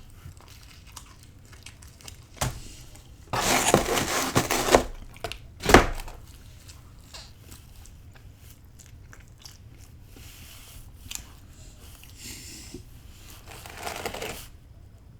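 Person eating pizza: chewing and handling the slices. There is a loud noisy stretch of over a second about three seconds in, a sharp knock just before six seconds, and a softer noisy patch near the end.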